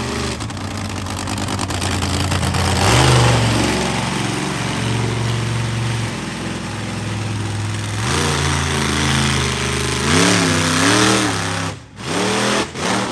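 Monster truck engine revving hard, its pitch climbing and falling several times, with a run of quick throttle blips near the end.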